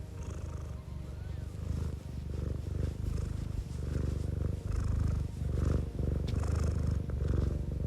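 Domestic cat purring, a continuous low rumble that swells and eases in a steady rhythm with each breath.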